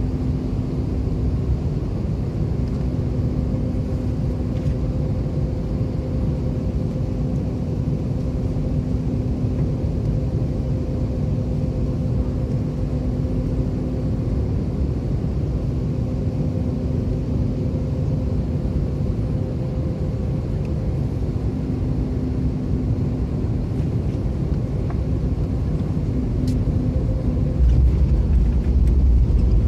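Steady rumble of an Airbus A320's engines and airflow heard inside the passenger cabin, with a faint even hum. Near the end the deep rumble swells louder.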